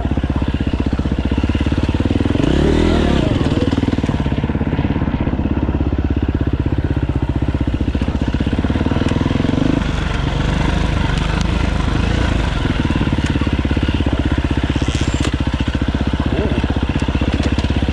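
Dirt bike engine running continuously under way on a trail, its pitch rising and falling once about two to three seconds in as the throttle is opened and rolled off.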